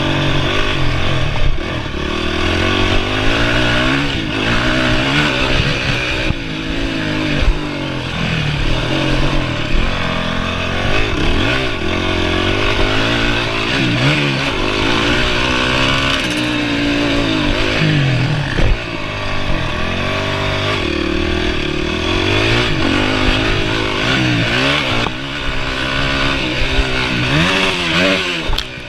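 Honda CRF450R four-stroke single-cylinder motocross engine revving hard, its pitch rising and falling every few seconds as the throttle opens and closes through the gears.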